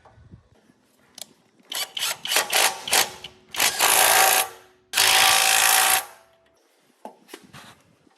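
A power tool run in short bursts, then held for two longer bursts of about a second each.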